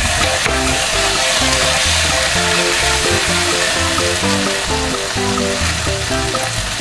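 Minced pork, leek and garlic sizzling steadily in oil in a wok, with soy sauce frying in the pan as a silicone spatula stirs. Background music with short, stepped notes plays over the sizzle.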